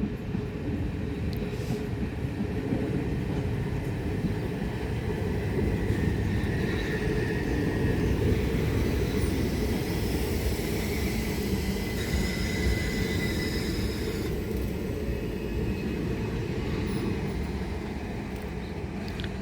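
Southern Class 377 Electrostar electric multiple unit running into the station, a steady rumble of wheels on the rails. Faint high whines come and go in the middle.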